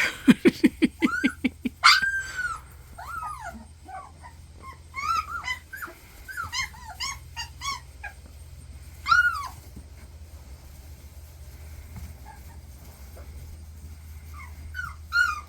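Young puppies whimpering and yipping in short, high squeaks that rise and fall, many in quick succession and then only now and then. In the first two seconds there is a rapid run of low pulses.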